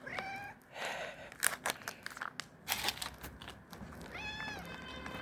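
A cat meowing twice: one short meow right at the start and another about four seconds in. Short clicks and rustles come in between.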